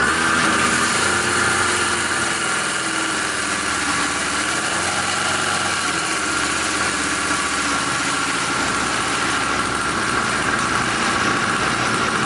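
Cheap 50cc two-stroke engine running at a steady idle, freshly started.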